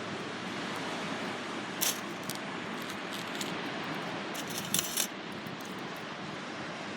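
Light metallic clinks and rattles of metal camp cooking gear being handled: one about two seconds in, a few more after it, and a quick cluster near five seconds. They sit over a steady wash of surf and wind.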